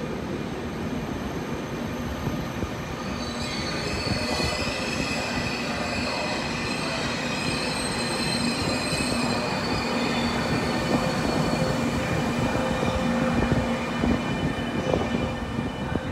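Passenger train of couchette cars rolling slowly along the platform, with steady wheel rumble and high, thin wheel squeal from a few seconds in until near the end. Its rear E402B electric locomotive comes past at the close.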